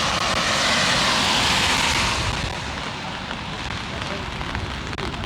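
Rain falling, with a loud wet hiss that fades about two seconds in, like a car's tyres passing on a wet road. After that come many light, close ticks of raindrops hitting an umbrella.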